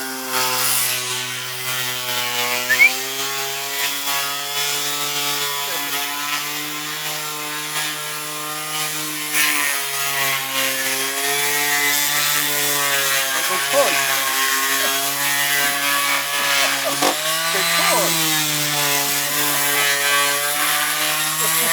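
Electric power tool running steadily, its motor pitch dipping and shifting slightly as it is worked against the material.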